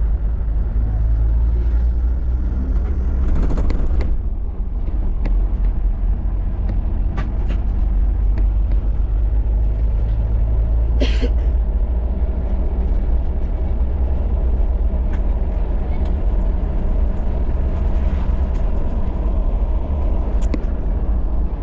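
Toyota Land Cruiser driving along: a steady, loud low rumble of engine and road noise, with a few light knocks and rattles and a brief sharper noise about halfway.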